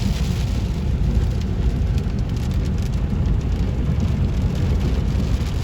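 Steady low rumble of a vehicle heard from inside the cabin.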